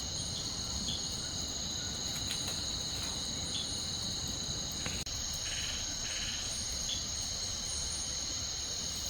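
Steady chorus of insects, crickets or cicadas, giving a continuous high-pitched trill at two pitches.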